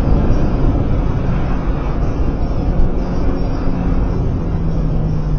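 BMW E36 318i's M40 four-cylinder engine pulling hard at around 110 km/h, heard from inside the cabin over heavy road and tyre noise. A steady low engine hum comes up about four seconds in.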